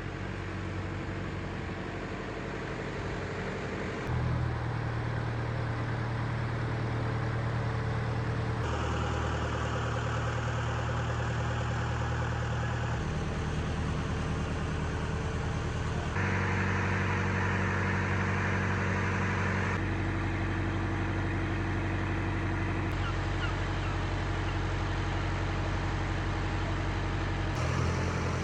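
An engine running steadily at a low idle-like hum. Its pitch and loudness jump abruptly several times.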